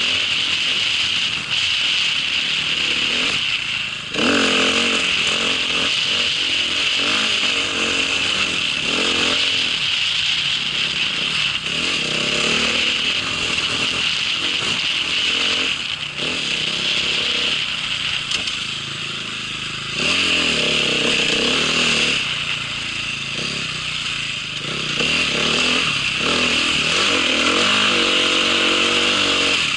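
A small vehicle's engine running under load, its pitch rising and falling as the throttle opens and closes, with a steady hiss over it.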